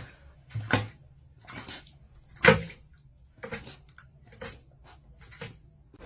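A series of about eight short, sharp sounds at irregular spacing, the loudest about two and a half seconds in.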